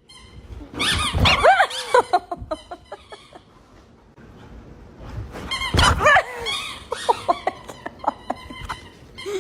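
A dog barking in two loud bouts, about a second in and again around six seconds in, with short sharp clicks and knocks between and after them.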